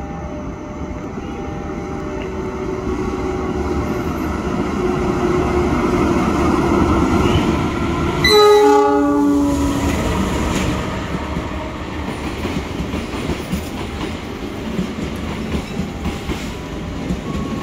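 Diesel-electric locomotive approaching, its rumble growing louder, then sounding one horn blast of about a second and a half some eight seconds in as it reaches the platform. The passenger coaches then roll past with wheels clacking over the rail joints.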